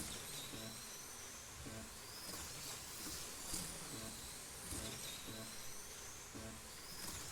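1/32-scale NSR Mosler slot cars lapping the track: their small electric motors whine, rising and falling in pitch again and again as the cars speed up and brake.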